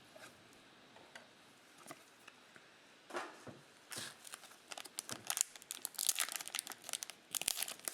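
Plastic wrapper of a trading card pack being torn open and crinkled by hand, in quick irregular crackles that start about three seconds in and grow busier toward the end.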